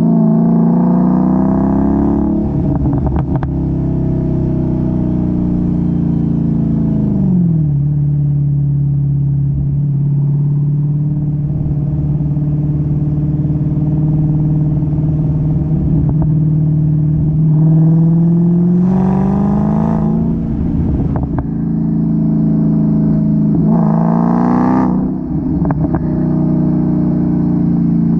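Supercharged 6.2-litre Hemi V8 of a 2016 Dodge Challenger SRT Hellcat through its stock active exhaust. The engine falls from higher revs to a steady idle and is revved up twice, each time crackling and popping as the revs fall off.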